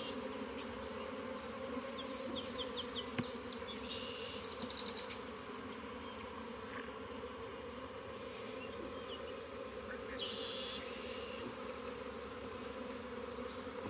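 Honeybees buzzing steadily around an opened hive, a low, even hum. Short, high scratchy rattles come through about four seconds in and again about ten seconds in.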